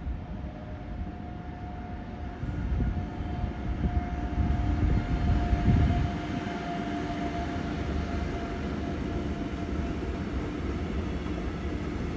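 A train moving along the platform, a steady low rumble with a faint held whine, growing louder a couple of seconds in and loudest around the middle.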